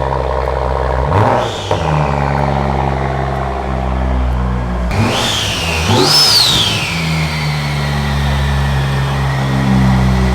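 BMW M235i's turbocharged N55 inline-six idling steadily, blipped briefly about a second in and then revved twice around the middle, each rev bringing a high whine that rises and falls away. It is running freshly restarted after repairs, and the owner judges that it runs good.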